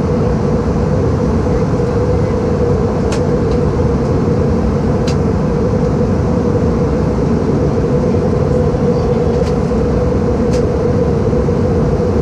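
Steady in-flight cabin noise of an Airbus A318-111: the rush of airflow and the drone of its CFM56 engines heard through the fuselage, with a constant hum. A few faint ticks come through.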